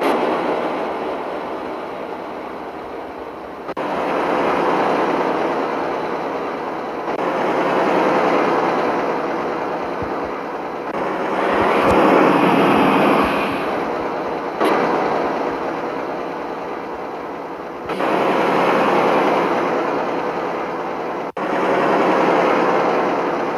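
Fuso truck running, engine and road noise heard in a series of abruptly cut clips, the level swelling and falling between cuts.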